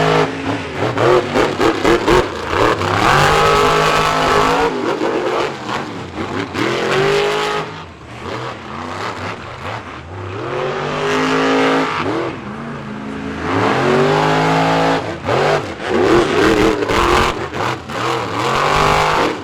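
Monster truck engines revving hard during racing, repeatedly climbing and falling in pitch as the throttle is opened and eased, with choppy stuttering throttle blips about a second in and again near the end.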